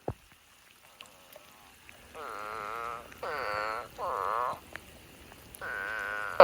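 Eastern spadefoot toads calling: four separate drawn-out calls, each under a second long, starting about two seconds in. A single sharp click comes right at the start.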